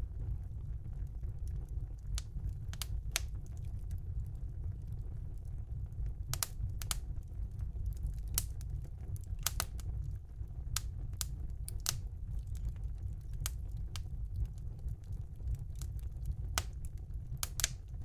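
Wood fire burning in a fireplace: irregular sharp crackles and pops from the burning logs over a steady low rumble.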